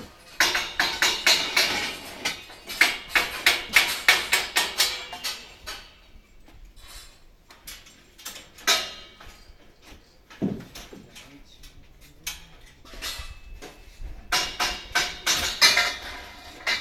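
Hammering during roof repair work: quick runs of sharp knocks, several a second, with sparser single blows between. The knocks have a hard, slightly clinking edge.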